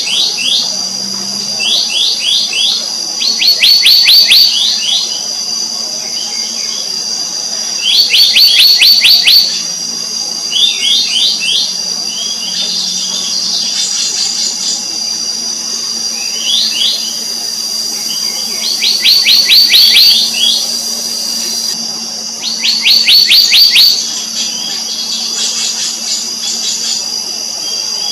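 Black-naped monarch calling: quick runs of four to eight sharp, ringing high notes, repeated every one to three seconds. A steady high insect whine runs underneath.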